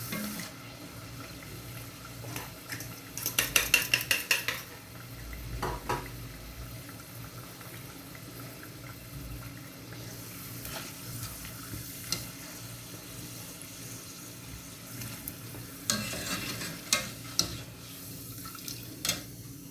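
Food sizzling as it fries in a pan, with a utensil stirring, scraping and knocking against the pan: a quick run of clicks about three seconds in and scattered knocks later on.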